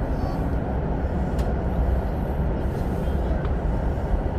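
Steady running noise of an SRT high-speed train heard from inside the passenger car: a continuous deep rumble with an even rush of rolling noise over it.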